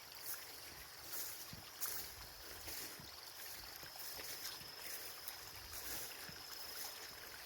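A small stream of water running over a track, with scattered short clicks and a faint steady high tone.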